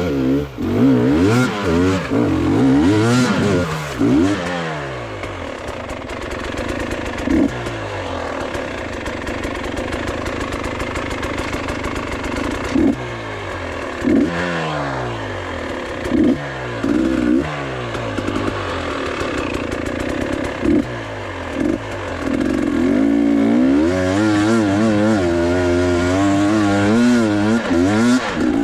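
Motorcycle engine revving up and down over and over, with short throttle blips through the middle and longer, wavering revs near the end.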